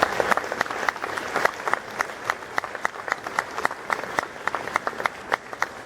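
Audience applauding, many people clapping, thinning out near the end.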